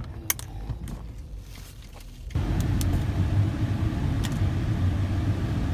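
Car engine running with a low, steady rumble that gets louder about two seconds in, with a few short, sharp clicks over it.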